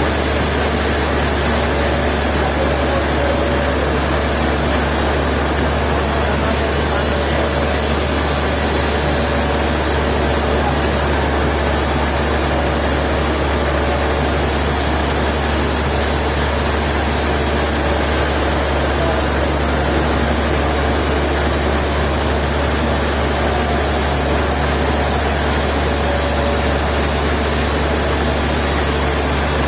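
Sawmill machinery running steadily: a loud, even mechanical drone with a deep hum underneath and no change in pace.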